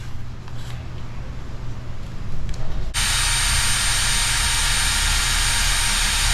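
A power tool starts suddenly about three seconds in and runs steadily, a loud rushing noise with a thin high whine. Before it there is a lower, quieter hum.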